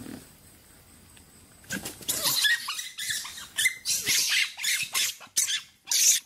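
Small animals giving a rapid run of short, high squeaks and chirps, mixed with scuffling clicks, after a quiet first second and a half; it cuts off suddenly near the end.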